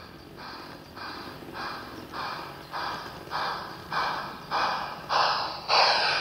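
Steam chuffing from the sound unit of an LGB garden-railway steam locomotive running on the layout: evenly spaced hissing chuffs, a little under two a second, growing steadily louder.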